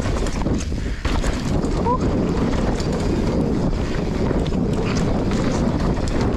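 Wind buffeting an action camera's microphone during a fast mountain-bike descent on a loose dirt trail. It is mixed with steady tyre noise and frequent knocks and rattles from the bike over bumps. There is a brief squeak about two seconds in.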